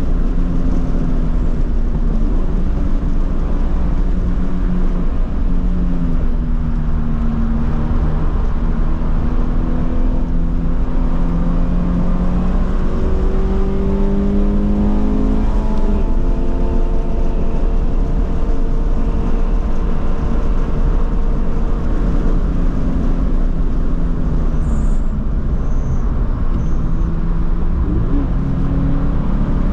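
Toyota GT86's 2.0-litre flat-four heard from inside the cabin on track, under heavy wind and road noise. Its note climbs under hard acceleration through the middle, drops at a gear change, then falls away near the end as the car slows for a corner.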